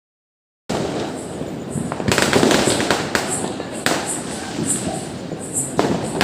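Diwali firecrackers going off: a dense crackle of small pops with louder bangs about every two seconds. It starts after a split second of dead silence.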